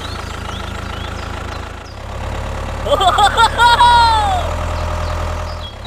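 Tractor engine running with a steady low drone. About three seconds in, a brief high-pitched squeaky voice wavers and then slides down in pitch.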